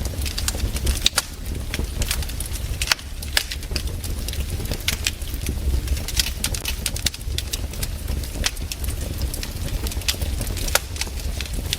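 Wood fire crackling: irregular sharp pops and snaps from the burning logs over a steady low rumble.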